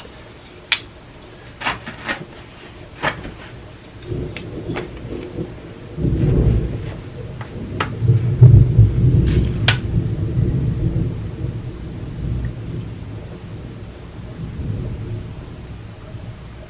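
A roll of thunder rumbles in low, swells to its loudest about halfway through and slowly dies away, over a steady rain hiss. In the first half there are several sharp separate clicks.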